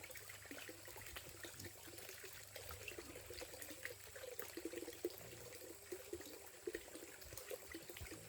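Faint water trickling and splashing, with many small irregular ticks.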